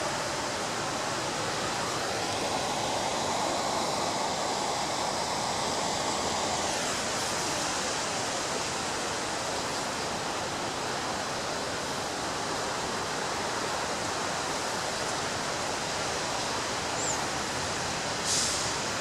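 Ocean surf breaking and washing onto a beach: a steady rush of water. A wave surges in the first few seconds, and there is a short hiss near the end.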